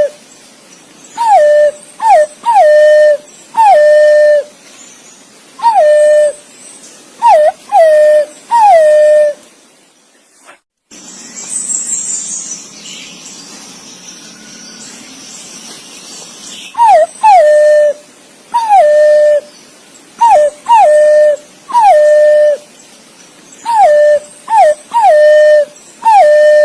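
Green pigeon (punai) calling to others of its kind: loud, whistled notes repeated in clusters of two or three, each one sliding down and then held on a steady tone. The calls stop for about six seconds midway, with only faint hiss and a brief high sound, then start again.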